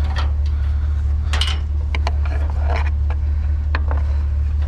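Objects clattering and clicking as they are handled, a few knocks at a time, over a loud steady low hum.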